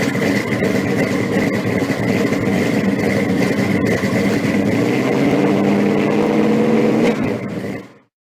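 A car engine running steadily, cutting out abruptly near the end.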